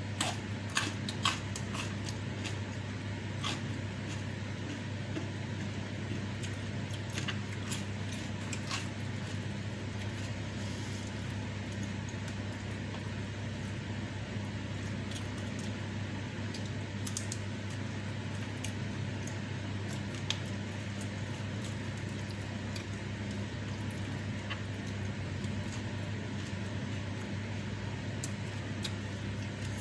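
Mouth sounds of chewing a hand-eaten meal of rice, salted fish and raw young jengkol: wet squishing with scattered sharp clicks, busiest in the first nine seconds, over a steady low hum.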